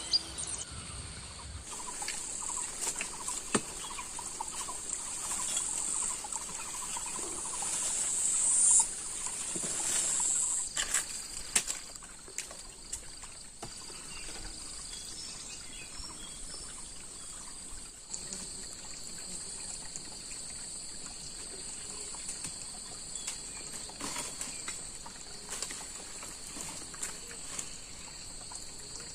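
Forest ambience: insects shrilling steadily at a high pitch in two bands, with scattered bird calls and a few sharp knocks.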